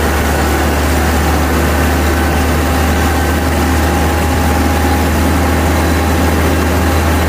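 Amphicar's rear-mounted Triumph four-cylinder engine running steadily under way on the water, heard close to its engine-deck grille as a deep, even drone. Behind it is a steady rushing hiss from the churning propeller wake.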